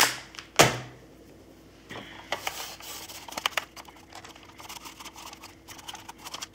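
Plastic parts of a Roomba 650 robot vacuum being handled and wiped clean. Two sharp knocks at the start, then scattered light clicks and scraping.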